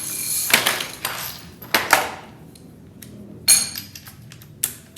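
Hand tools clanking and clinking against metal while the door hinge bolts are taken out of a truck door: a scraping rattle, then several sharp metal knocks, the one about three and a half seconds in ringing briefly.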